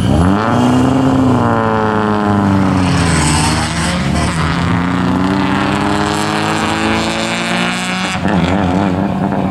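Competition car's engine revving hard through a slalom run, its pitch rising sharply in the first second, falling away, then climbing steadily again before wavering near the end as the driver lifts off and accelerates between the cones.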